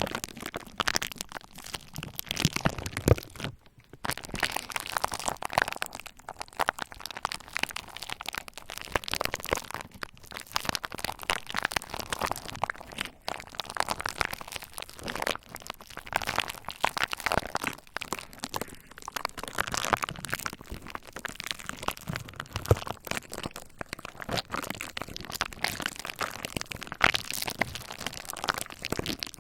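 Bubble wrap being worked with a roller: a dense, continuous run of small sharp pops and crinkles.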